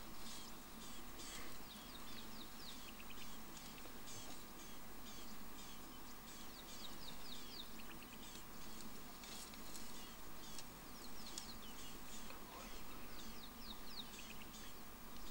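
Wild birds calling: runs of short, high chirps that slide downward in pitch, repeating in quick series throughout.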